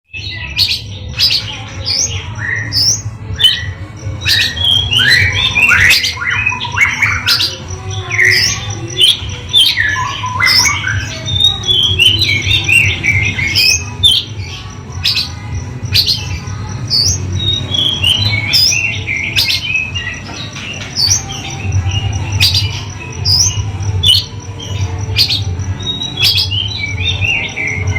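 Oriental magpie-robin (kacer) singing continuously in rapid, varied phrases of sharp calls and downward-sliding whistles. Under it run a steady thin high tone and a low hum.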